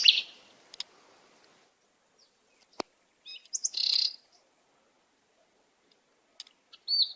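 Birds chirping in short groups of high, quick calls separated by quiet gaps, with a single sharp click a little before the middle.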